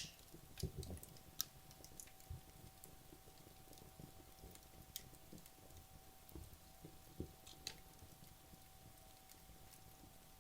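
Wood logs burning in a fireplace well into burning down: quiet, sparse crackles and small pops at irregular intervals, with a few soft low thumps and a faint steady tone underneath.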